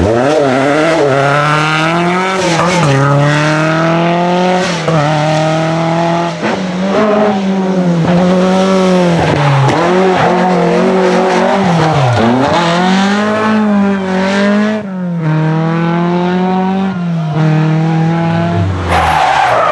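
Rally car engine revving hard. Its pitch drops and climbs back again and again, every one to two seconds.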